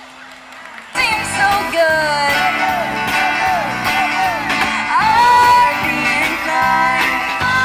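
A vocalist singing with a band, guitar audible, cutting in suddenly about a second in after a quiet moment.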